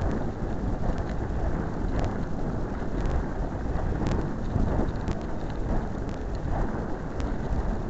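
Wind rushing over a small camera microphone: a steady rumbling rush with scattered light clicks and ticks.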